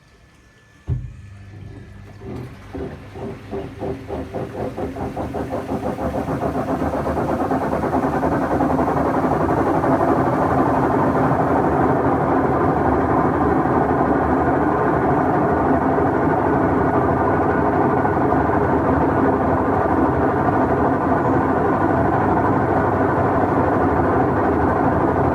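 Whirlpool washing machine starting with a sharp click, then a knocking that speeds up and grows louder over several seconds as the drive comes up to speed, settling into a steady loud mechanical running noise. It is the sound of a faulty gearbox.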